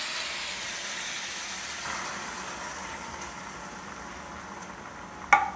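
Sausages, bacon and onions sizzling in a pot, the sizzle slowly dying down; a single sharp metal clink near the end.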